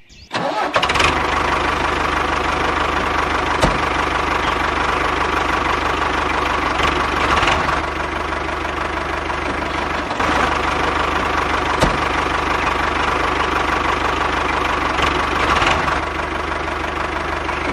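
Mini tractor's small engine running steadily at idle, an even, unbroken drone with a few faint ticks.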